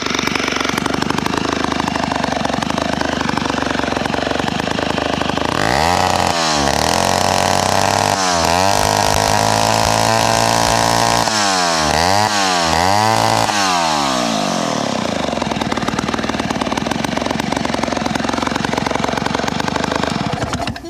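1968 Homelite Zip chainsaw's 77 cc two-stroke engine, with a straight open exhaust that has no spark arrestor, running steadily. From about six seconds in it is revved up and down several times, then settles back to a steady run. It has just been brought back to running with a rebuilt carburetor and is still being tuned in.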